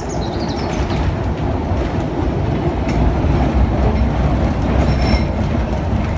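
A tram running on its rails: a steady, loud rumble with faint high wheel squeals near the start and again about five seconds in.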